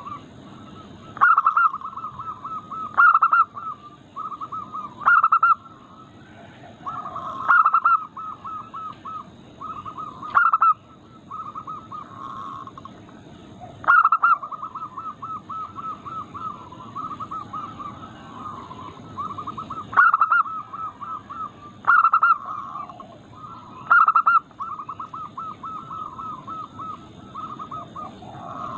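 Zebra doves (perkutut) cooing: long runs of rapid, staccato soft notes at about one pitch, broken every couple of seconds by a much louder, sharper note, over a steady low background hiss.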